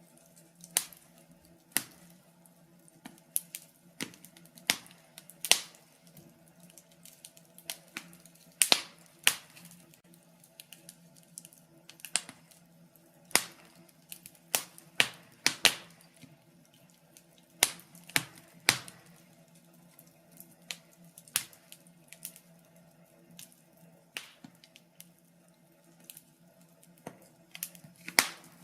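Wood fire in a fireplace crackling, with irregular sharp pops and snaps, a few louder ones standing out, over a faint low steady hum.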